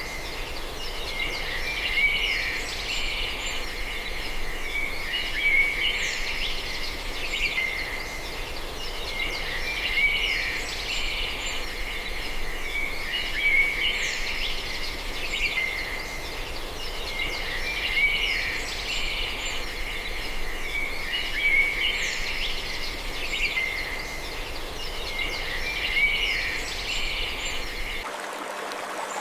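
Birds chirping and calling over a steady outdoor background hiss, the same burst of calls coming round about every four seconds. About a second before the end the calls stop and a different steady noise takes over.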